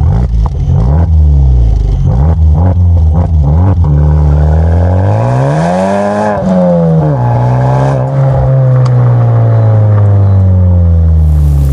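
Honda Civic Type R FK8's turbocharged 2.0-litre four-cylinder revving through an HKS Legamax Premium exhaust. It gives a few quick blips with sharp pops, then one longer rev that climbs and drops about six seconds in, settling to a steady, slowly falling note.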